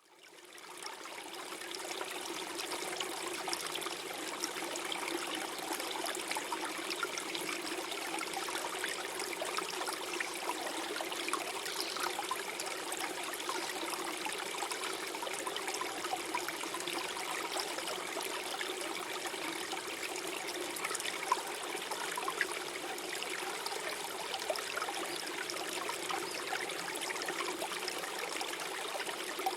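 Gentle stream flowing and gurgling steadily, fading in over the first second or two.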